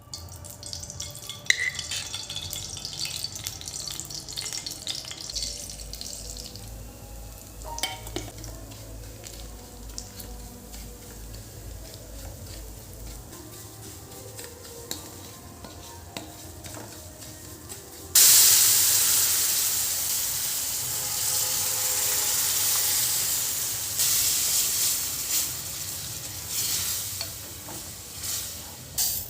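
Light kitchen clinks and clatter. About two-thirds of the way in, a sudden loud sizzle starts as food goes into hot oil, and it keeps sizzling with stirring.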